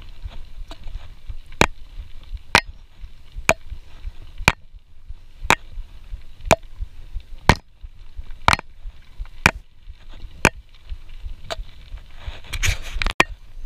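Sharp, evenly spaced taps about once a second from a hydration-pack (CamelBak) strap and drinking hose knocking against the GoPro while riding a mountain bike, over a low rumble. A brief burst of rattling comes near the end.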